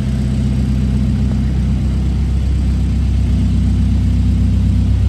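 1958 Triumph TR3A's four-cylinder engine idling steadily just after a cold start, running with some choke on.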